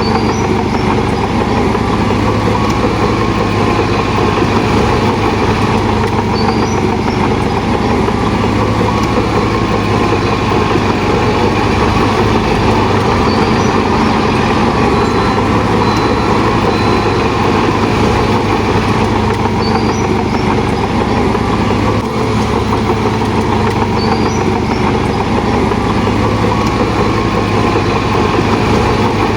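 Heavy diesel earthmoving machinery running steadily and loudly, a continuous engine sound with a low drone.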